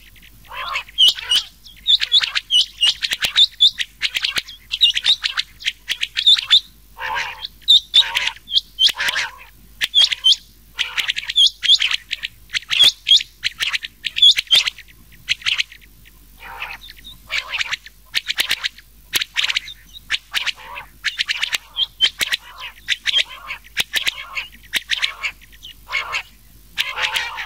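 Quail calling over and over in quick phrases of short, sharp whistled notes: a mixed recording of common quail and rain quail calls, used as a lure call for quail hunting.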